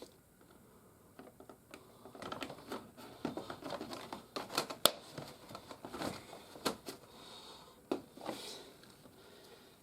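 Hard plastic playset pieces being handled and tabbed together: a run of irregular clicks and knocks with light rattling, the sharpest click just under five seconds in.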